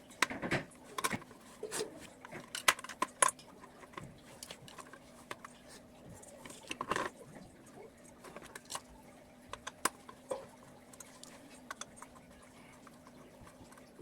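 Scattered sharp clicks and light metallic clinks of small metal objects being handled, over a faint steady hum.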